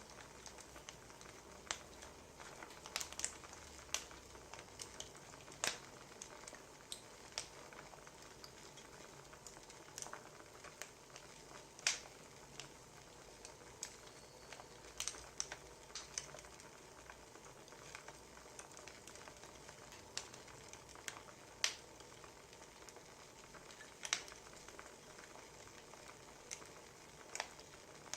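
Wood fire crackling: a faint steady hiss broken by irregular sharp pops and snaps, roughly one a second.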